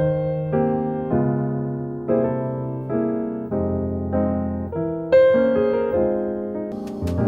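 Background piano music: gentle notes struck one after another, each ringing and fading. A few short clicks come near the end.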